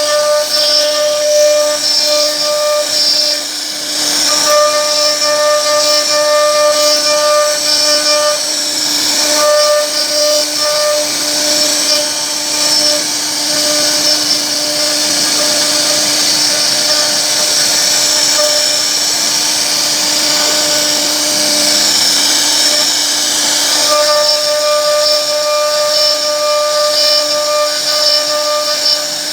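CNC router spindle running steadily while its bit cuts wood, a steady whine over a hiss of cutting. The whine fades for a stretch in the middle and comes back strongly near the end.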